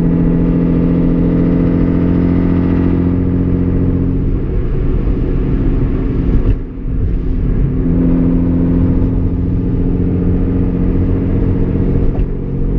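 Hyundai Genesis Coupe's 3.8-litre V6 droning steadily at cruise, heard from inside the cabin. About six and a half seconds in, the engine note drops away for a moment, then picks up again and carries on steadily.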